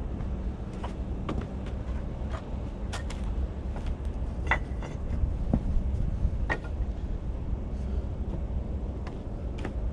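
Bricklaying sounds: a handful of scattered knocks and clinks as a trowel and bricks are worked into mortar, a couple of them ringing briefly, over a steady low hum.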